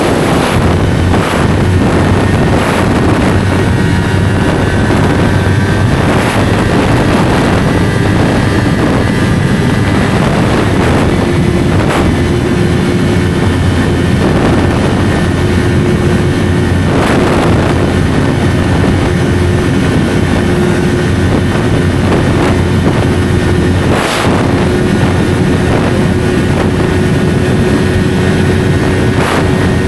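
Yamaha YZF-R3's 321 cc parallel-twin engine running steadily through an SC Project slip-on exhaust while riding, with wind rush on the microphone and a few brief sharp knocks.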